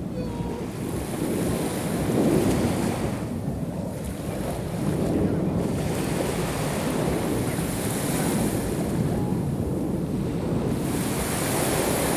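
Black Sea surf washing onto the shore, the hiss swelling every few seconds as each wave comes in, with wind rumbling on the microphone.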